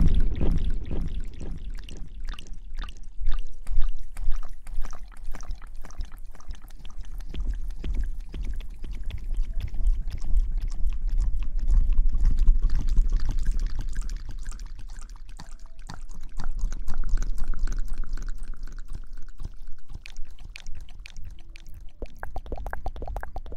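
Close-miked ASMR hair washing: wet hair and lather being rubbed and squeezed, a steady run of soft crackling and squishing.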